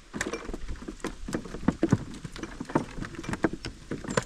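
Rapid, irregular knocking and tapping against the canoe's hull, several strokes a second, some sharper and louder than others.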